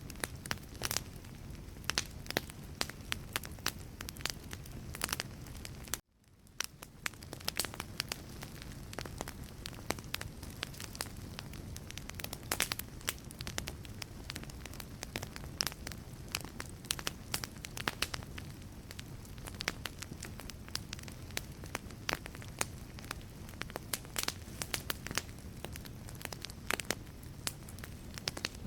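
Wood fire burning in a fireplace: irregular sharp crackles and pops from the burning logs over a low steady rush of flame. The sound cuts out abruptly about six seconds in and fades back up within a couple of seconds.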